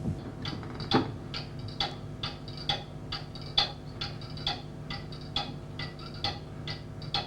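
A clock ticking steadily, about two ticks a second, over a low steady hum.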